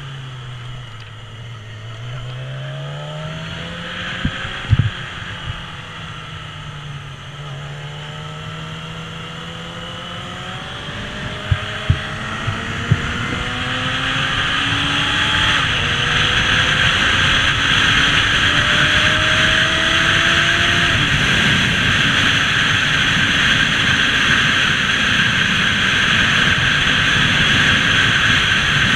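Motorcycle engine accelerating, its pitch climbing in steps through several gear changes. Wind noise on the microphone builds up about halfway through as speed rises. A few sharp knocks are heard in the first half.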